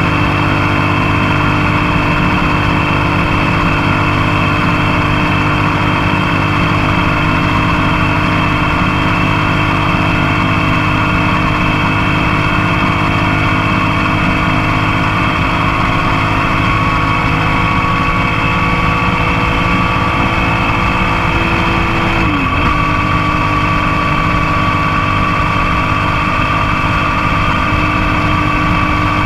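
Motorcycle engine running steadily under way, heard close up from the passenger foot peg, with road and wind noise underneath. About 22 seconds in the engine note dips briefly and then settles again.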